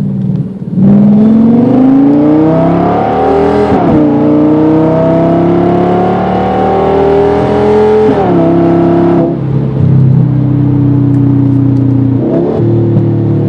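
Audi S8's 5.2-litre V10 engine with the mufflers removed, heard from the cabin, pulling hard: the exhaust note climbs in pitch, drops sharply at an upshift about 4 s in, climbs again and drops at a second upshift about 8 s in, then settles to a steady pitch at cruising speed.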